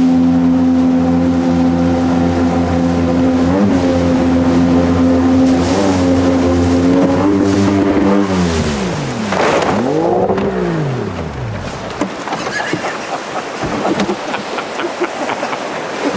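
Jet boat engine running steadily at speed, then the revs drop away about eight seconds in, rise once briefly and fall off again, leaving the rush of water and hull noise with scattered knocks.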